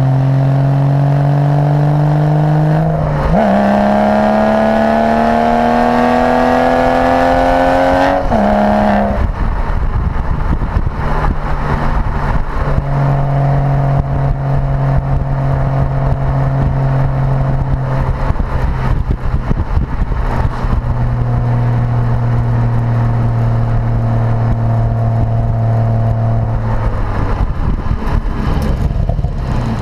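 Porsche Boxster with a sports exhaust accelerating: the engine note rises, drops with an upshift about three seconds in, and climbs again until the driver lifts off around eight seconds. It then runs at steady revs, cruising, with road rumble underneath.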